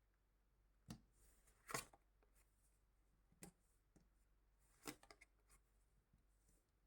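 Fortune-telling cards being handled and laid down on a table: a few soft, short taps and slides spread out, the loudest a little under two seconds in.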